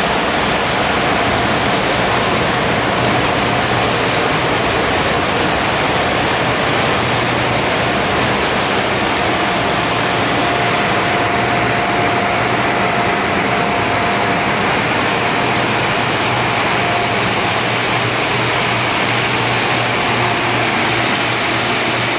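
Loud, steady din of a bulk carrier's engine-room machinery, with a low hum underneath and a thin steady whine that stands out for several seconds in the middle.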